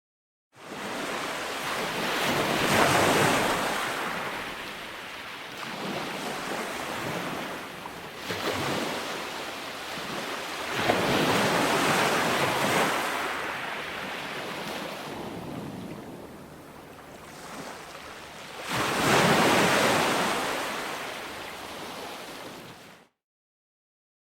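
Calm ocean waves washing onto a beach, swelling and ebbing in slow surges, with three louder breakers about eight seconds apart. The surf cuts in after a moment of dead silence and cuts off suddenly about a second before the end.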